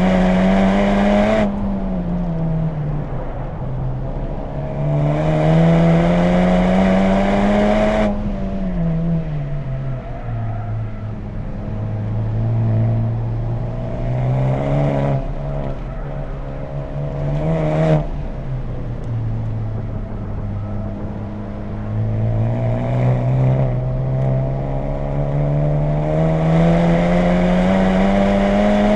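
Honda Civic Type R FK8's turbocharged four-cylinder engine through an HKS Legamax aftermarket exhaust, pulling hard with its pitch climbing steadily, then dropping away sharply, again and again over the run, with road and wind noise underneath.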